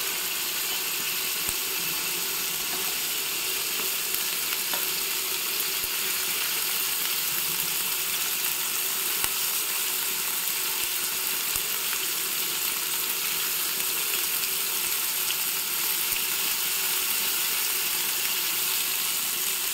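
Steady sizzle of vegetables frying in hot mustard oil: spiny gourd (kakrol) slices being laid into one pan while cauliflower fries in another.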